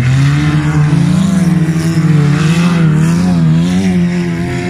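Engines of stripped-down wreck-race cars revving hard on a dirt track. The pitch climbs in the first second, then rises and falls as the throttle is worked.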